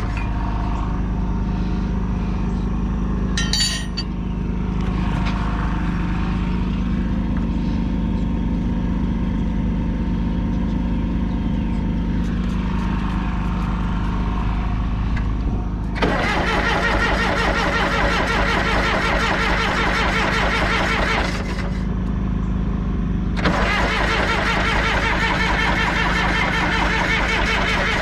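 A John Deere 450C crawler dozer's diesel engine running steadily. It twice gets louder and harsher, from about 16 to 21 seconds in and again from about 23 seconds to the end. A brief high squeak comes a few seconds in.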